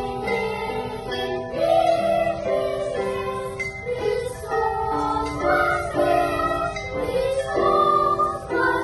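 Children's choir singing a Russian Orthodox Easter song in sustained, changing notes.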